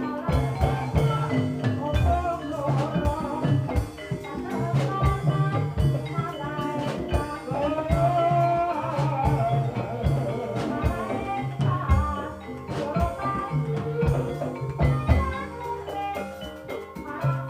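Javanese gamelan-style accompaniment for an ebeg horse-dance: bright tuned percussion playing interlocking patterns over steady hand-drum strokes, without a break.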